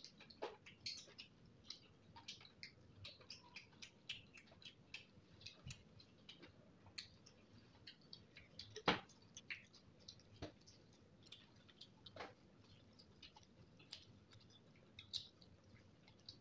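Close-up wet chewing and lip-smacking of a person eating spicy noodles and French fries by hand: a steady run of small clicks and smacks, with one sharper click about nine seconds in.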